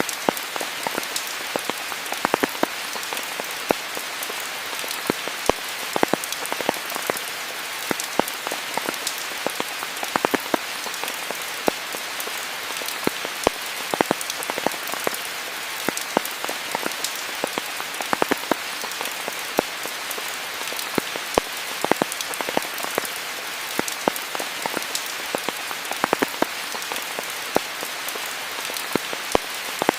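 Steady rain falling, a constant hiss with many individual drops ticking sharply on leaves and other surfaces.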